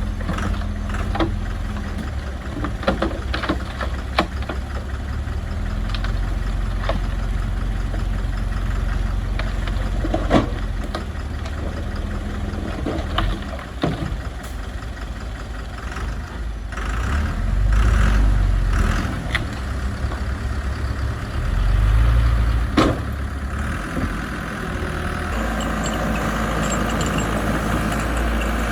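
Diesel engine of heavy construction machinery running, with scattered sharp clanks and knocks. It swells louder twice in the middle, as if under load, and takes on a brighter, noisier sound near the end.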